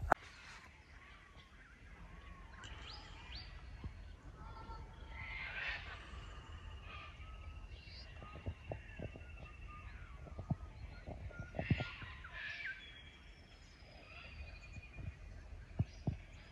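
Several birds calling and chirping at once, short rising and falling calls with one long drawn whistle partway through, over a faint low rumble and a few soft knocks.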